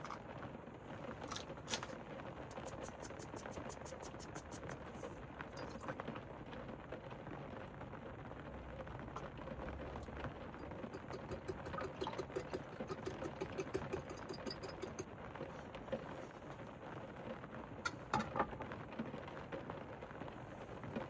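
Rain pattering steadily on the roof of a camper van, heard from inside, with scattered small ticks of drops and a couple of sharper taps near the end.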